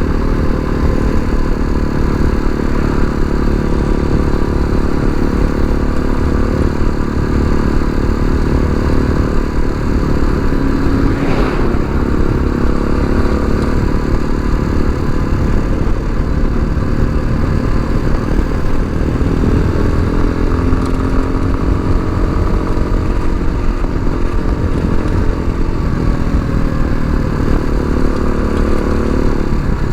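Tao Tao TBR7 dual-sport motorcycle's single-cylinder four-stroke engine running under way, its pitch drifting up and down a little with speed.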